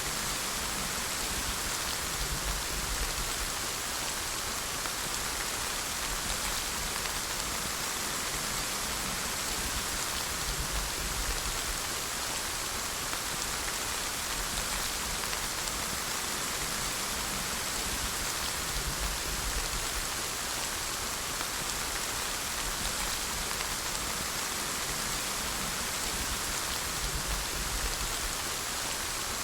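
Steady rain falling and pattering on a surface, a constant even hiss with no breaks or thunder.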